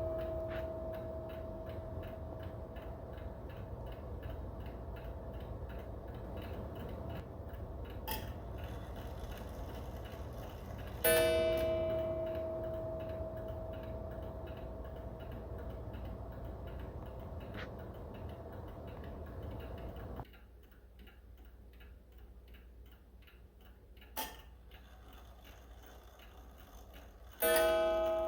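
Seth Thomas beehive mantel clock ticking steadily and striking single strokes about 11 s in and near the end, each one ringing out and fading slowly. A sharp click comes about 8 s in and another about 24 s in; the background gets quieter about 20 s in.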